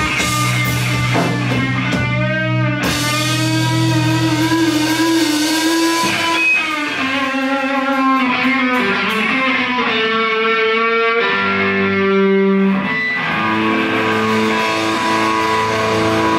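Live rock music led by electric guitar: sustained, bending notes with vibrato, settling near the end into a held, ringing chord.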